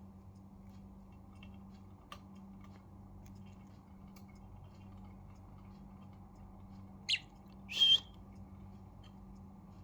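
Budgerigar giving two short squawking chirps near the end, the second louder, over a low steady background hum.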